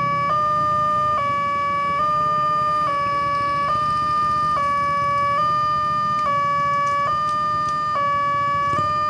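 Railway level-crossing warning alarm sounding a steady two-tone electronic signal, alternating between a higher and a lower pitch a little under once a second, with a low rumble underneath. It is the crossing's warning that a train is approaching and the gates are closing.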